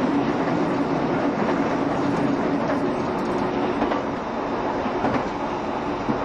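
JR Shikoku 7200 series electric train running at speed, heard from inside the car: a steady rumble of wheels on rail with a constant hum, and a few clicks of the wheels over rail joints in the second half.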